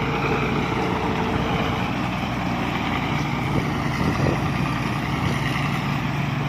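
Rice combine harvester's engine running steadily, a constant drone with no change in speed.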